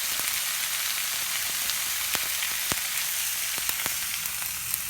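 Food frying in a hot oiled frying pan over a gas burner: a steady sizzle with a few sharp spitting pops from about two seconds in.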